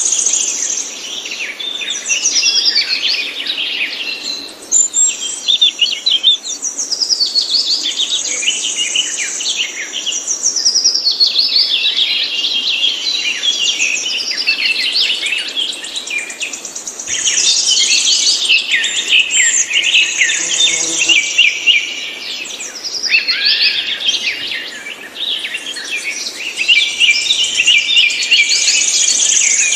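Songbirds singing, a dense, unbroken run of overlapping rapid chirps and trills.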